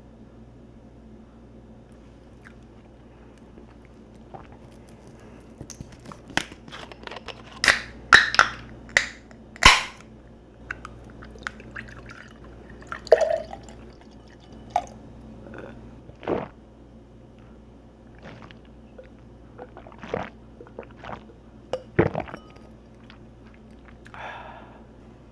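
Tabletop handling of glasses, bottles and dishes: a run of sharp clicks, clinks and knocks, densest about a third of the way in, with brief liquid sounds of a drink being poured.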